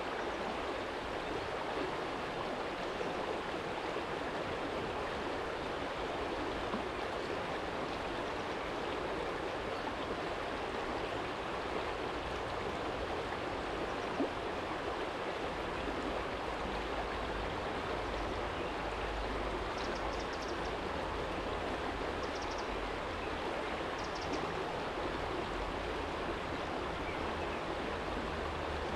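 Small shallow stream flowing over a stony bed: a steady, even rush of water. A low rumble joins in about halfway through.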